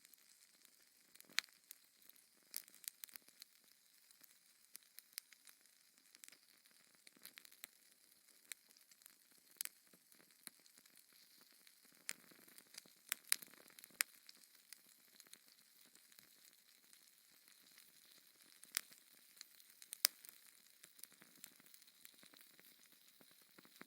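Wood fire in a fireplace crackling: irregular sharp pops and snaps over a faint hiss, a small cluster of pops about halfway through.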